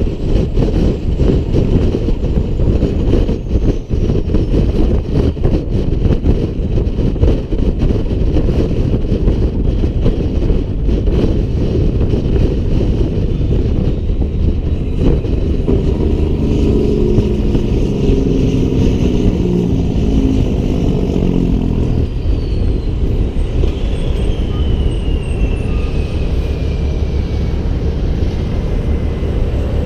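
Heavy diesel truck engine running steadily under load while driving, with road noise. Partway through, the engine note shifts for several seconds, and later a high whine slides down in pitch.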